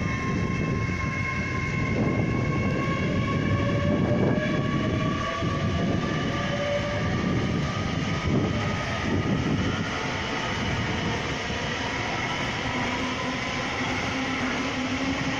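GWR Hitachi Class 800 intercity express train pulling away along the adjacent line. It makes a steady rumble, with a whine that rises slowly in pitch as it gathers speed.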